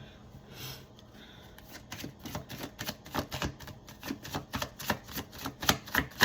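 Tarot cards being shuffled by hand: a fast, uneven run of card slaps and clicks that starts about two seconds in and gets louder.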